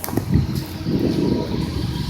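Low, uneven rumbling and buffeting of wind hitting a phone's microphone during a rainstorm.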